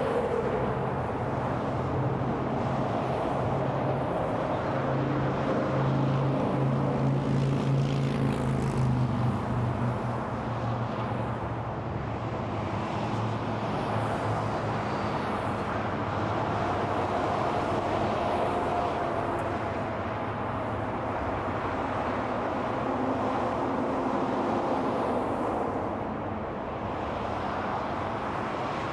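Steady freeway traffic: a continuous rush of tyres and engines from vehicles passing on the interstate. A low engine drone swells in the first few seconds and fades out by about twelve seconds in.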